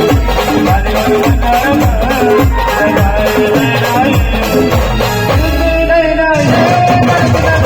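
Local brass band playing a folk-style tune, melody over a steady bass drum beat with shaker-like percussion. About six seconds in, the drums drop out briefly under a held melody note, then the beat comes back.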